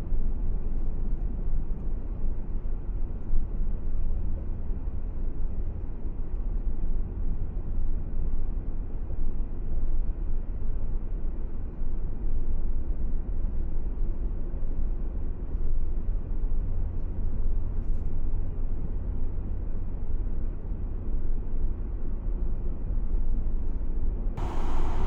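Car driving along a desert highway: a steady low rumble of engine and tyre noise. A sudden rush of wind noise comes in right at the end.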